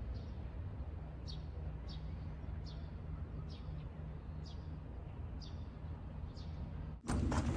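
A bird calling over and over, a short high downward chirp about once every second, over a steady low hum. Near the end it cuts suddenly to louder, clattery sound.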